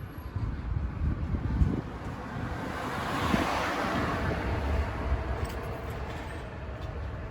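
A road vehicle passing by: a steady rush of noise that swells to its loudest about three and a half seconds in, then fades, over a low rumble.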